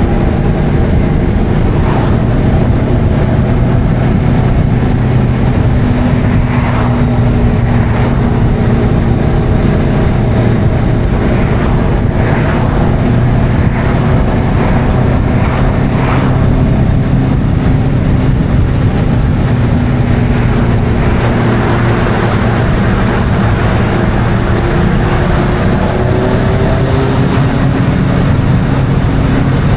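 Kawasaki ZZR1400's inline-four engine running steadily under way, its pitch drifting slowly up and down.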